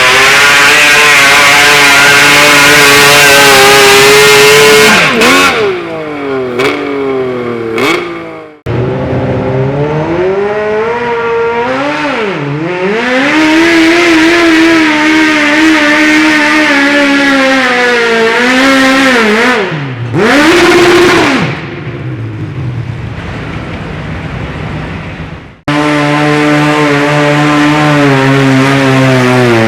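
Modified garden pulling tractor engines running hard at high revs under load. The revs dip and are blipped back up several times. The sound cuts abruptly twice, as if between separate pulls.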